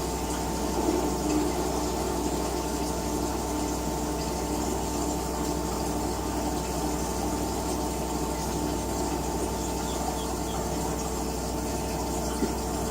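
LG WT-R852 direct-drive top-load washing machine running through its cycle: a steady hum with a few constant tones over a watery hiss.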